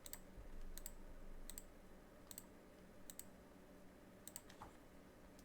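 Faint computer mouse clicks, about seven or eight spaced unevenly, most of them heard as a quick double tick of press and release, as a randomizer is run over and over.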